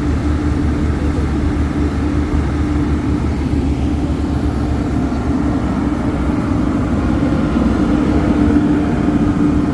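Heavy engine running steadily, a constant low rumble with a steady hum over it.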